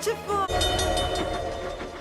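Steam locomotive sound effects: a whistle and the low rumble of the engine rolling, starting loudly about half a second in and fading, mixed with orchestral film music.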